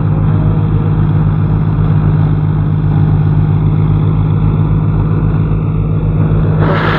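John Deere tractor's diesel engine running steadily at high revs, with a fast, even exhaust beat.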